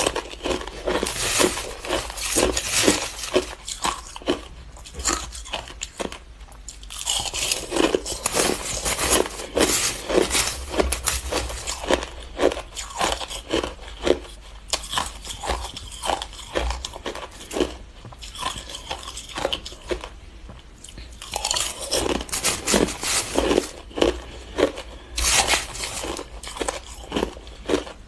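Ice being bitten and chewed close to the microphone: a dense run of sharp crunches, easing off briefly about six seconds in and again around eighteen to twenty seconds in. A faint low hum lies underneath.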